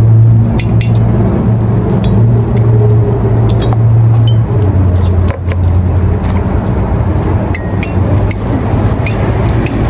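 Car engine running at idle, a steady low hum that drops slightly in pitch about four and a half seconds in, with scattered small clicks over it.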